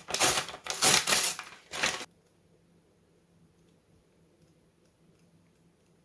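Rustling from handling paper or plastic packaging, in several loud bursts over about two seconds. It then cuts off suddenly to near silence with a few faint ticks.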